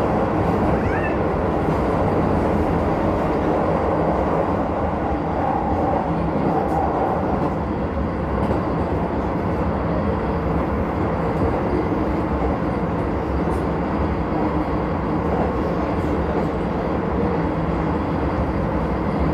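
Keisei 3000-series electric train running at a steady speed, heard from inside the car: an even rumble of wheels on rail that holds its level throughout.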